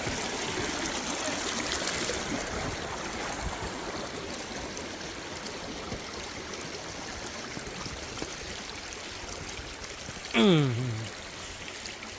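Water rushing steadily from a dam spillway that is releasing water. A little after ten seconds in, a brief loud sound falling in pitch cuts across it.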